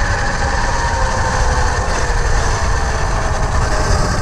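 Tuttio electric dirt bike at about 50 mph: heavy wind rush and rumble on a helmet-mounted camera, with a faint electric motor whine that slowly falls in pitch.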